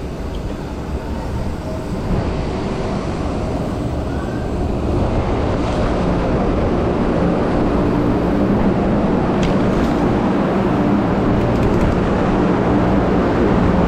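Wind rushing over the microphone of a rider's camera while cycling, with tyre and road noise underneath; it grows louder about five seconds in as the bike picks up speed.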